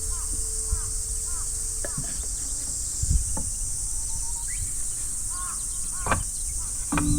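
Steady high-pitched insect chorus with short bird chirps scattered through it, a low rumble underneath, and a few sharp knocks.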